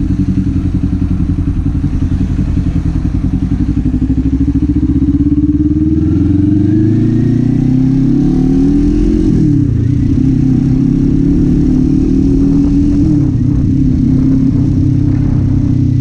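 Kawasaki Z400's parallel-twin engine and exhaust under way, revs climbing steadily, then two sharp drops in pitch as it shifts up, about halfway through and again about three-quarters through, before settling to a steady cruise.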